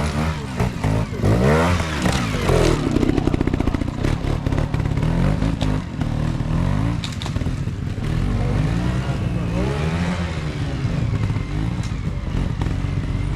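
Trials motorcycle engine being blipped and revved over and over, the pitch repeatedly rising and falling as the bike is worked through an observed section, with some clatter.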